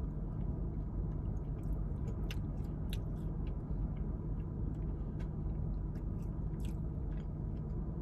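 Close-up biting and chewing of crunchy fried food, with scattered small crisp crunches, over a steady low hum in a car cabin.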